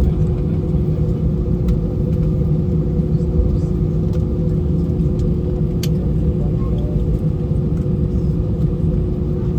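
Steady low rumble and hum inside an Airbus A319 cabin, engines idling as the aircraft taxis after landing, with a couple of faint clicks.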